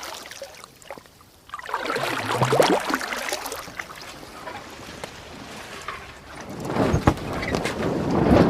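A montage of small-boat sound effects: a boat engine swells up and fades about two seconds in, then water noise, and another surge builds with sharp knocks near the end.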